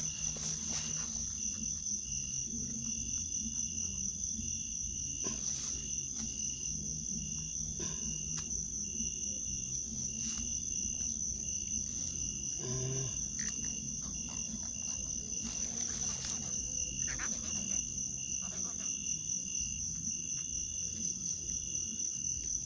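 Insects, crickets among them, calling steadily: one continuous high-pitched trill with a fainter pulsing trill under it, over a low rumble.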